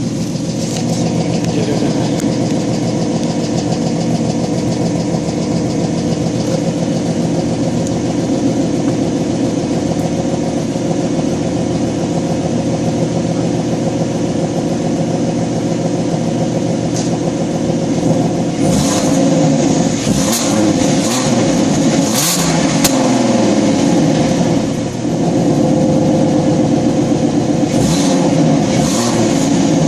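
Ford Mustang 3.7 L V6 exhaust, with shorty headers, an X-pipe and stock mufflers. It idles steadily cold for most of the time, then is blipped several times to light revs of around 1500–2000 RPM near the end. While cold the engine has a mechanical, kind of tinny rasp.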